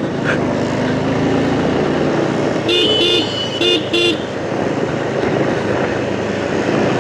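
Steady wind and road noise from riding a motorcycle, with the wind buffeting the windshield. About three seconds in, a vehicle horn honks in a few short blasts.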